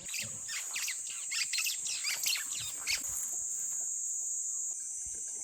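Birds chirping in a quick, busy run for about three seconds, then stopping, over a steady high-pitched insect drone.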